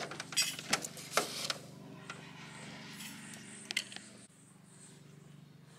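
A metal spoon clinks and scrapes against a stainless steel travel mug as instant coffee is spooned in, several sharp clicks in the first second and a half and another a little later, over a steady low hum.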